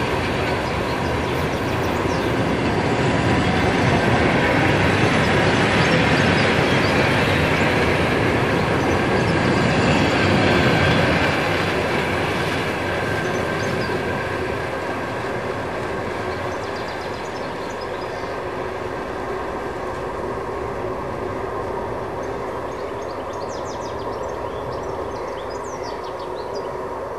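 Passenger coaches of a train rolling past on the track, with wheels and running gear clattering. The noise is loudest in the first ten seconds or so, then eases as the last coaches go by.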